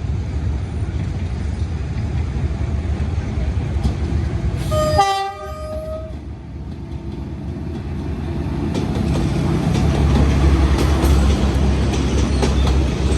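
Diesel-hauled passenger train SE5 coming in to the station: a steady low rumble, one short horn blast about five seconds in lasting about a second, then the rumble and the clickety-clack of the wheels growing louder as the train draws near.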